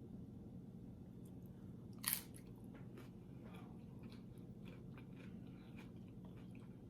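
Faint chewing of tortilla chips, with one sharp crunch about two seconds in and a few small mouth clicks after it, over a steady low hum.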